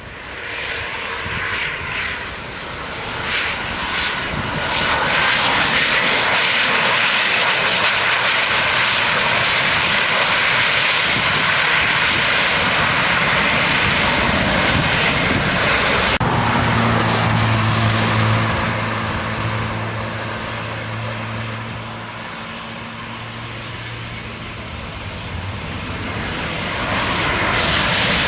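Airliners on landing approach passing close by: engine noise builds over the first few seconds and holds loud and steady, then changes abruptly about 16 seconds in to a second aircraft with a steady low hum, which fades and builds again near the end.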